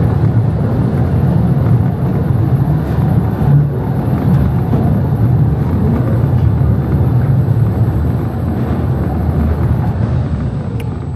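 Mail Rail narrow-gauge electric train running through the tunnel: a steady, loud rumble of the cars on the track, easing off near the end.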